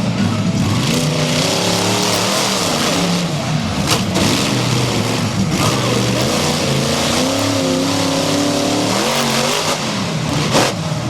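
Monster truck engine revving, its pitch rising and falling repeatedly, with a sharp bang twice.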